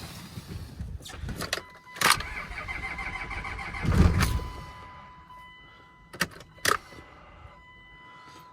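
A vehicle being cranked over on jumped batteries in the cold, with two loud surges, while a steady electronic chime tone sounds; two sharp clicks follow past the middle.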